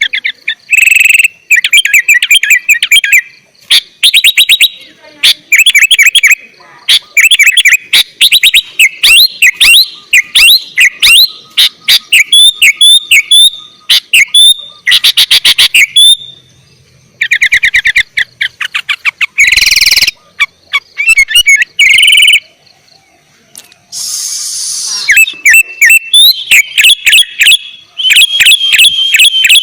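Sooty-headed bulbul (kutilang) singing loudly and vigorously: fast runs of bubbly, whistled notes in short repeated phrases, with a few harsh, noisy bursts about two-thirds of the way through.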